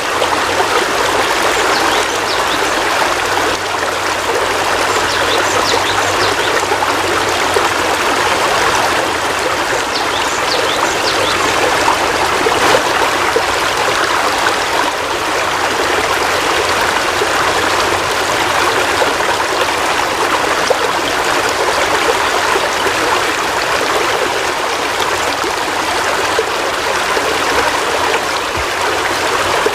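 Heavy rain falling steadily, an even rushing hiss of water with no let-up.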